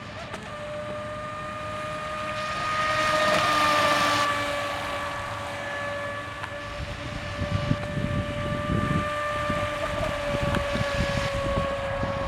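Pro Boat Shockwave 26 RC boat's brushless motor whining at a steady high pitch under way, over a rush of water and wind. The rush swells about three seconds in.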